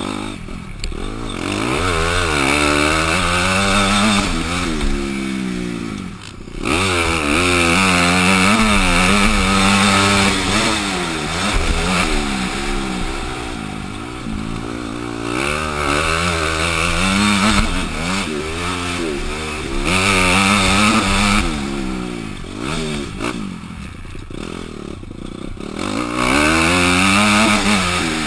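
Honda CRF250 four-stroke single-cylinder motocross bike engine under hard throttle, its pitch sweeping up and falling back again and again as the rider opens and closes the throttle around the track. The throttle is chopped briefly about six seconds in.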